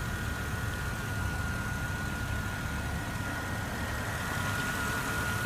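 A car engine idling steadily: an even low rumble with a faint, thin steady whine above it.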